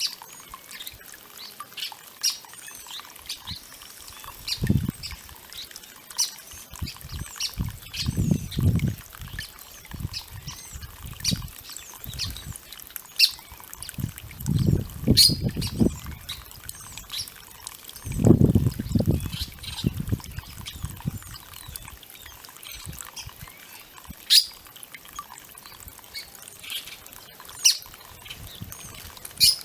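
Small birds chirping at a water fountain, with several bursts of splashing as they bathe, the loudest about 18 seconds in.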